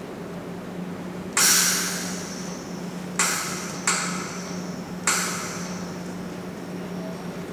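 Metal struck four times, each a sharp clank that rings out and fades over about a second, over a steady low hum.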